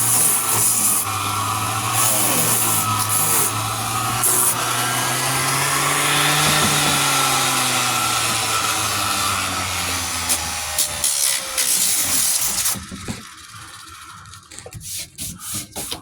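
Power sander running against body filler on a truck door panel: a motor tone that wavers in pitch as it is loaded, over a gritty sanding hiss. It cuts off about three-quarters of the way through, followed by a few light clicks and taps.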